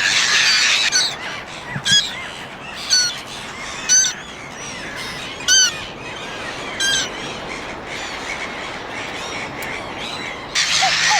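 Flock of black-headed gulls calling. A dense, overlapping chorus gives way to about five single short calls roughly a second apart, and the chorus starts up again near the end.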